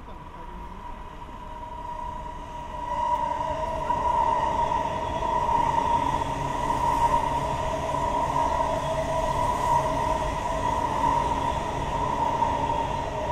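Two coupled E4 Series double-decker Shinkansen sets running past, growing louder about three seconds in and then holding a steady rumble with a high whine over it.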